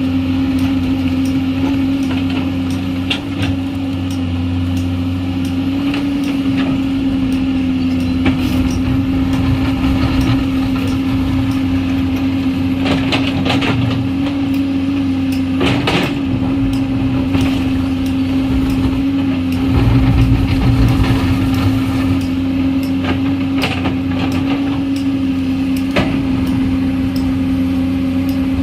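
Komatsu PC210 hydraulic excavator working, its engine and hydraulics holding a steady humming drone. Scattered sharp knocks sound over it, and the low rumble grows louder for a moment about twenty seconds in.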